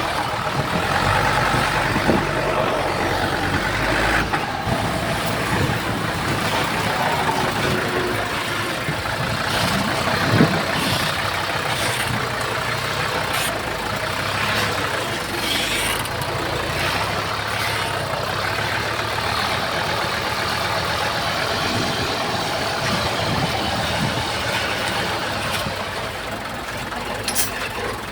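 Diesel engines of heavy earthmoving machines, a bulldozer and dump trucks, running steadily, with scattered clanks and knocks.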